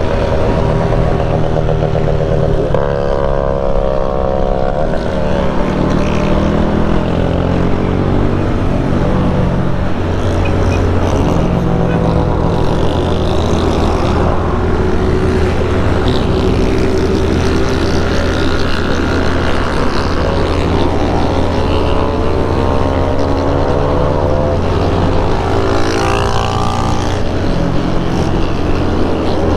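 Several motorcycle engines running together, with a steady low drone underneath and individual bikes' exhaust notes rising and falling as they rev and ease off.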